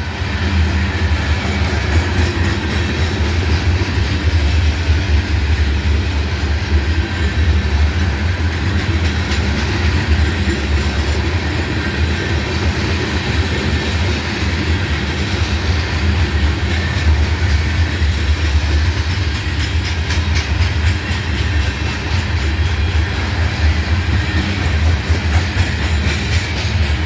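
CSX freight train's cars rolling past close by: a steady, loud rumble of steel wheels on rail, with wheels clicking over rail joints in the later part.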